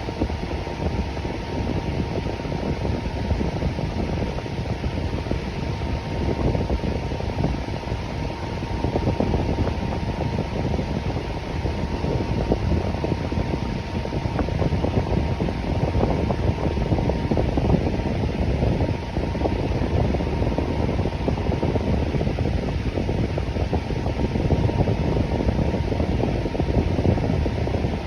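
Electric fan running steadily: an even whoosh of moving air, strongest in the low range, with a faint steady hum.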